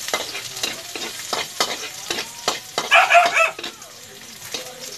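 Chopped garlic and onion sizzling in hot oil in a wok, with a metal spatula stirring and scraping in quick strokes through the first three and a half seconds. A brief loud call cuts in about three seconds in.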